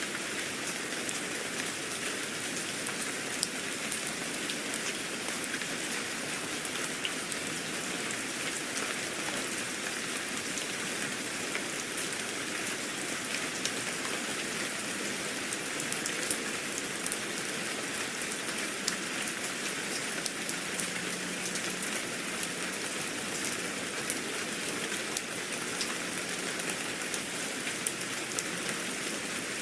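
Steady rain falling on a surface, a constant hiss with many small scattered drop ticks.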